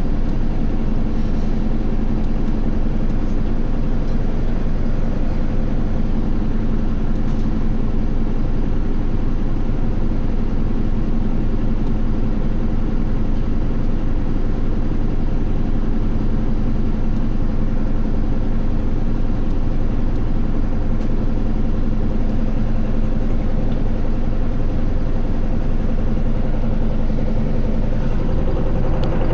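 An Isuzu Erga city bus's four-cylinder turbodiesel, heard from on board, running at a steady note; near the end the engine note changes to a higher pitch.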